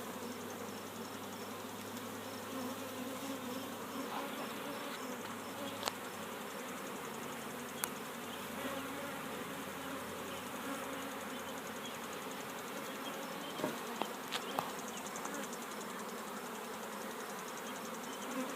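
Honeybees buzzing steadily around an opened hive during a frame inspection; the colony is a strong, healthy one. A few sharp clicks stand out, around six, eight and fourteen seconds in.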